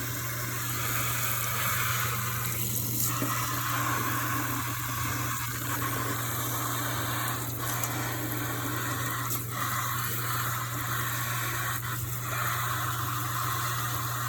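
Kitchen tap running steadily into the sink, with a low steady hum beneath.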